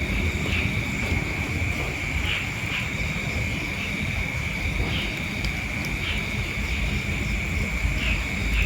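A steady high-pitched insect trill, with short chirping calls repeating about once a second, over a low rumble of wind on the microphone.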